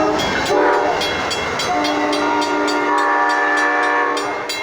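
Train passing close by, its multi-tone air horn sounding a short blast and then one long held chord, with the wheels clattering over the rail joints.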